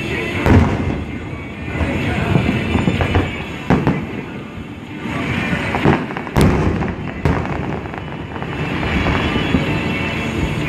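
Aerial fireworks exploding in a rapid, loud barrage: continuous crackling and popping, punctuated by about five sharp booms.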